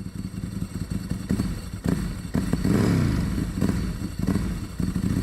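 Aprilia RS 250 two-stroke V-twin on Arrow exhausts running with a fast pulsing beat, getting louder about two seconds in as the revs rise and fall.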